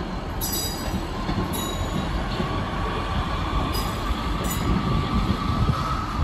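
Northern diesel multiple unit running slowly through the station pointwork: a steady low rumble, with a faint whine that rises slightly in pitch from about a second in, and a few sharp high clicks.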